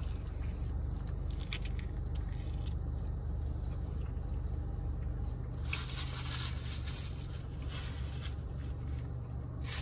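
A man biting into and chewing a toasted fish wrap, with soft squishing and crunching, over a steady low hum in the car cabin. A paper wrapper rustles through the second half.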